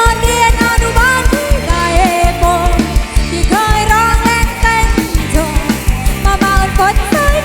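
Live band music: a steady, driving drum and bass beat under a sustained lead melody that slides between notes.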